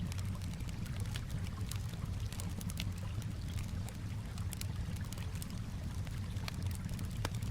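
Campfire crackling with irregular sharp pops over a steady low wash of calm water lapping.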